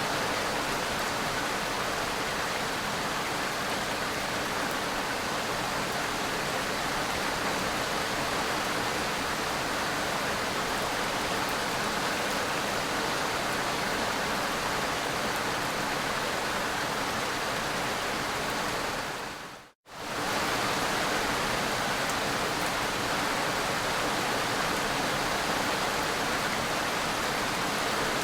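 Steady, heavy rain falling in an even wash. About twenty seconds in it fades out to silence for a moment and comes straight back, as at an edit or loop point.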